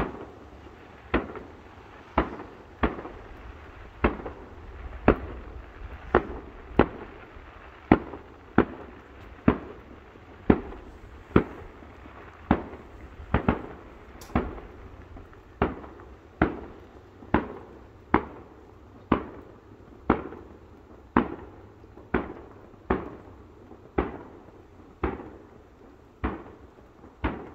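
Distant aerial fireworks bursting in a steady string of sharp bangs, about one a second, each trailing off in a short echo.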